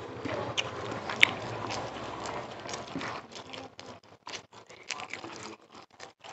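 Eating sounds of a person chewing rice and chicken: wet mouth clicks and smacks, with one sharp click about a second in. The sounds thin out into separate clicks in the second half.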